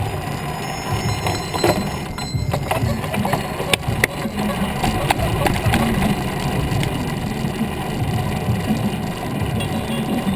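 Riding noise on a bicycle: a steady low rumble of wind and tyres, with scattered clicks and rattles.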